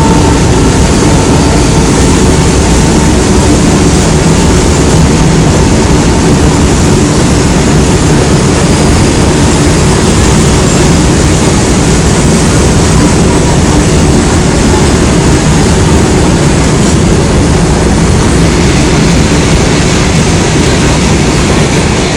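Freight train rolling past close by: a loud, steady rumble of wagons and wheels on the rails.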